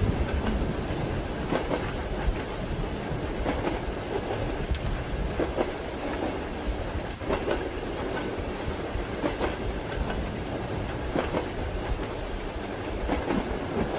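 Steady rain mixed with the low rumble and clatter of train wheels on the rails, as heard inside a moving passenger compartment.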